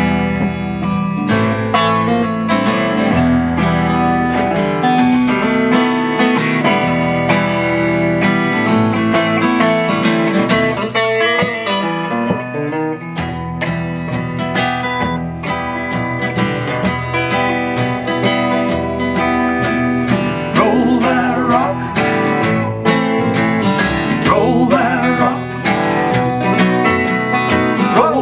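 A band plays the instrumental intro of a rock song: acoustic guitar strumming over a walking bass line.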